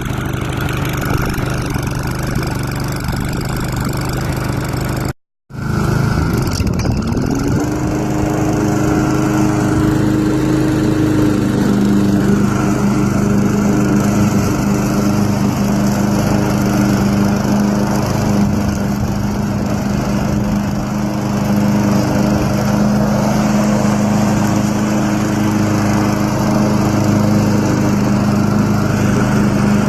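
Husqvarna AWD self-propelled walk-behind mower's small engine running steadily after a cold pull-start. It breaks off briefly about five seconds in, then comes back rising in pitch and holds steady.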